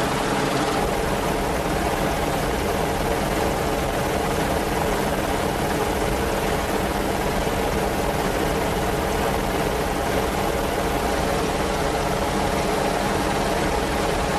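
Merlin helicopter's turbines and rotors running steadily, with a constant pitched drone and no change in level.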